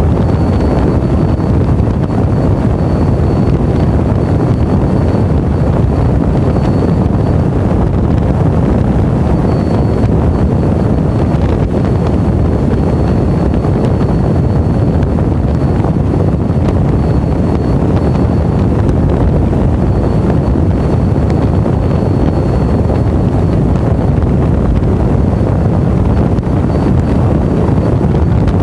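Steady, loud wind rush buffeting the microphone of a camera on a moving motorcycle, over the motorcycle's engine and road noise.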